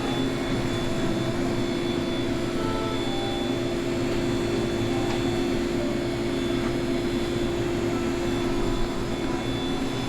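A steady droning hum with a constant low pitched tone and no breaks.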